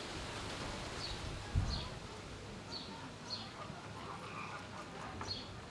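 A bird chirping repeatedly, with a short high note roughly once a second, and a low thump about a second and a half in.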